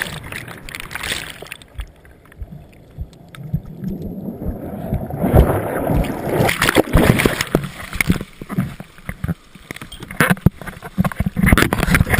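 Sea water rushing and splashing around a canoe in the surf. The rush fades over the first couple of seconds and surges again twice, with sharp knocks mixed in.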